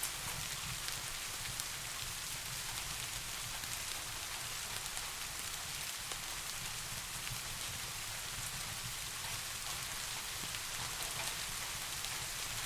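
Steady rain, an even hiss with scattered sharp drop ticks, over a steady low rumble.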